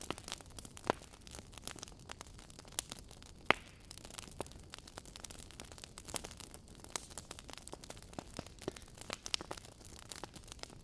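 Wood logs burning in a fireplace, crackling with irregular sharp pops and snaps over a faint hiss. Two pops, about one second in and near the middle, stand out louder.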